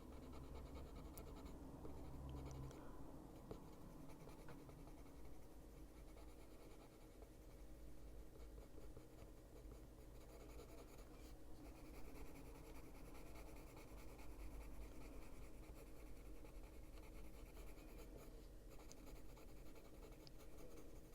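Faint scratching of a coloured pencil shading on paper in short, continuous strokes, darkening an area with black.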